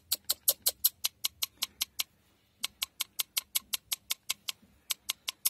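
Rapid, even tapping, about seven sharp ticks a second, with a brief pause about two seconds in: a container of potassium permanganate crystals being tapped to shake the crystals out.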